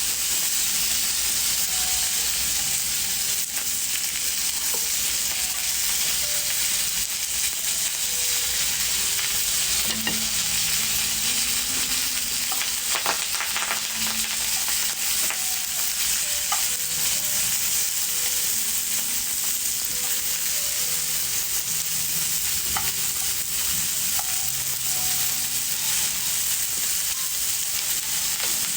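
Food frying in a pan, a steady sizzling hiss.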